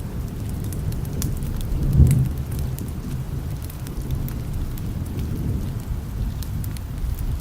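Steady rain with a low rolling thunder rumble, swelling into a louder peal about two seconds in, with scattered sharp ticks over it.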